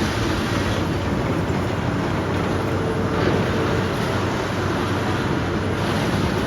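Heavy demolition machinery, such as an excavator's diesel engine, running steadily with a continuous low rumble.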